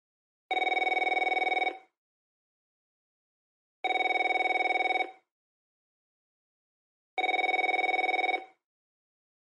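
Landline telephone bell ringing three times, each ring a fast trill about a second and a quarter long, with silence between rings.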